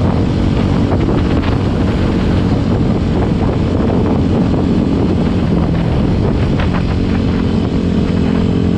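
Kawasaki dual-sport motorcycle engine running steadily while riding a gravel road, with heavy wind noise on the helmet microphone. The engine note shifts slightly about seven seconds in.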